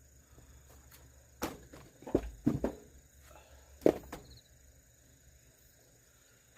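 Firewood being split and handled: a handful of sharp wooden knocks and thuds over about two and a half seconds, the loudest near the end of the run.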